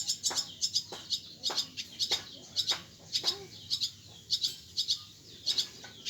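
Birds chirping: short, sharp, high chirps in quick pairs and triplets, repeated about every half second.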